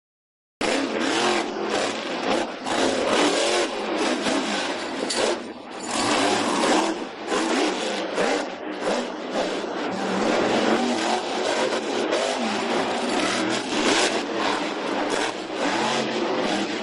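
Monster truck engine revving hard, the throttle opened and backed off over and over so the noise keeps swelling and dipping. It cuts in suddenly about half a second in.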